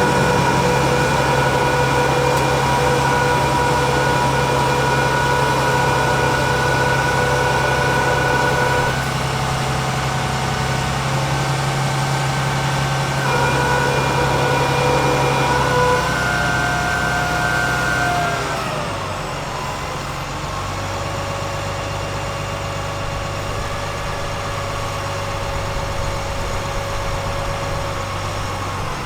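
International DT466 diesel engine of a digger truck running steadily with a whine, its tones shifting a few times. About 18 seconds in the pitch glides down and the engine settles at a lower speed, a little quieter.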